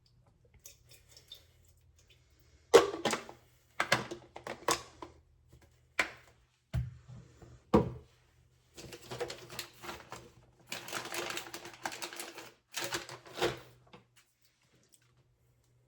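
Small hard objects being handled: a run of sharp clicks and clacks, then three stretches of rubbing or rustling near the end.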